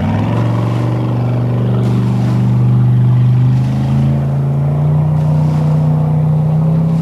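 Racing boat's engine running hard, coming in loud right at the start and then climbing slowly in pitch from about halfway as it gains speed.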